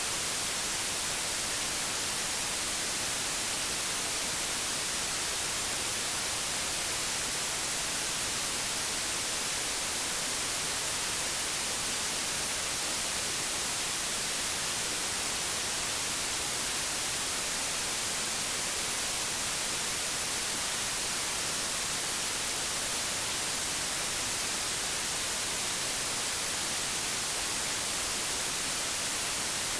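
Old analogue television static: a steady, even hiss with no pitch, strongest in the treble.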